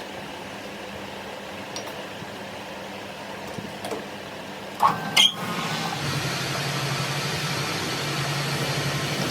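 Two loud metallic clanks with a brief ring about five seconds in. Then a machine starts running with a steady low hum that slowly grows louder.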